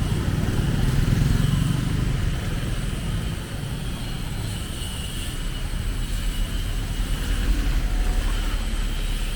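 Street traffic: a motor vehicle passes close by in the first two seconds or so, over a steady hiss of city street noise.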